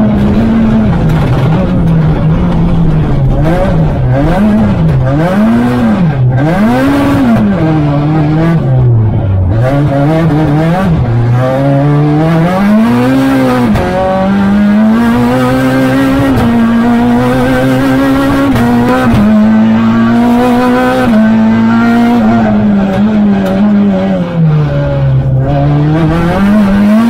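Renault Clio R3 Max rally car's engine at full stage pace, heard from inside the cockpit. The revs rise and fall quickly again and again with gear changes and lifts, then hold high for long stretches with brief dips.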